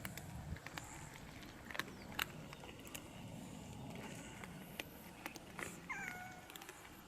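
Scattered small clicks and crunches of cats eating dry cat food, with one short downward-bending cat meow about six seconds in.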